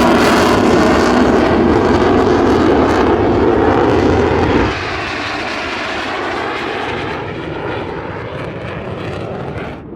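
F-35B Lightning II's single F135 turbofan jet engine running loud. About five seconds in the level drops suddenly, and the engine continues quieter with a slowly shifting, phasing whoosh.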